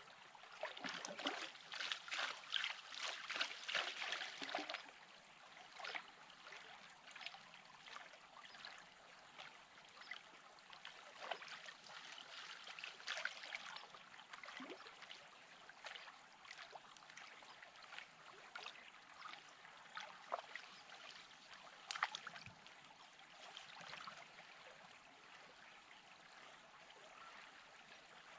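Running stream water with scattered small clicks and rattles, busiest in the first five seconds, and one sharp click a little past the twenty-second mark.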